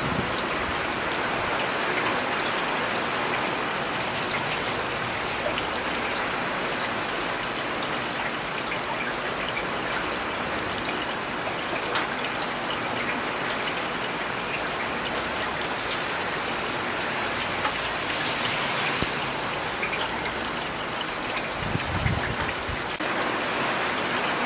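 Steady rain falling, with a few sharper drops ticking now and then and a brief low rumble near the end.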